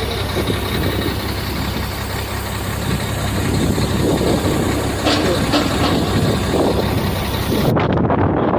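Shacman heavy truck's diesel engine idling steadily, its low running sound continuous, with a couple of light knocks about five seconds in.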